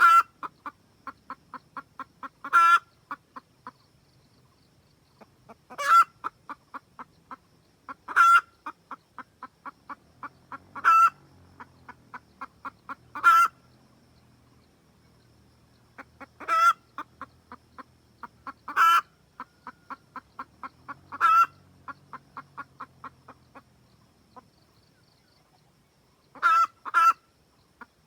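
Red junglefowl hen cackling to call a rooster: runs of quick, even clucks, each ending in a loud, drawn-out squawk, repeated about every two to three seconds, with two loud squawks in quick succession near the end.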